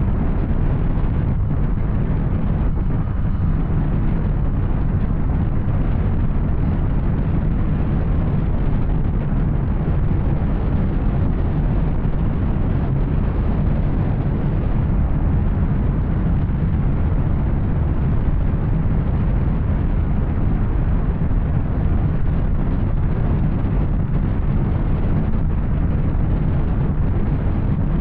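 Yamaha Tracer 900's three-cylinder engine running at a steady cruise through an Arrow aftermarket exhaust.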